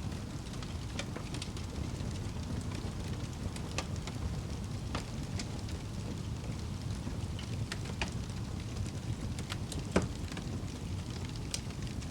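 Wood fire burning in a fireplace: a steady low rumble of flames with irregular crackles and snaps, and one louder pop about ten seconds in.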